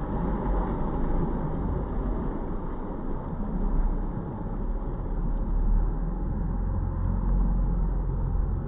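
Jet ski under way: a steady, unbroken rumble of engine, water and wind, strongest in the deep bass.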